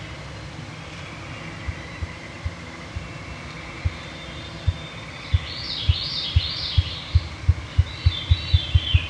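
Ruffed grouse drumming: deep wing-beat thumps, a few slow ones at first, then coming ever faster and louder toward a rapid roll near the end. A songbird sings above it twice, the second time near the end.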